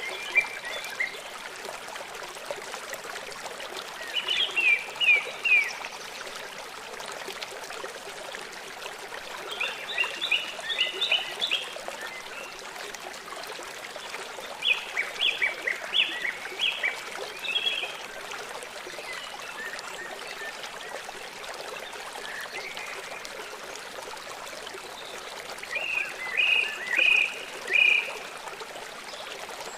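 Small songbird singing in five short bursts of rapid, high chirping notes, over a steady running stream.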